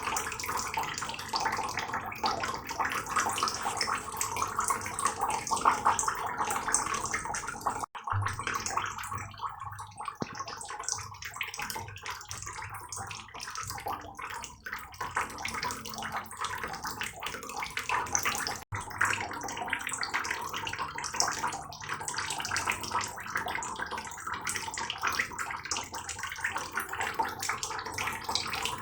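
Heavy rain falling steadily, a dense, even patter of countless drops. The sound cuts out for an instant twice, once about a third of the way in and again about two-thirds in.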